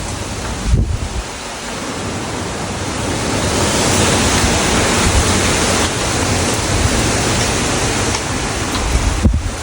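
Strong wind in a windstorm: a loud, steady rushing roar that swells about three seconds in, with low buffeting thumps on the microphone near the start and again near the end.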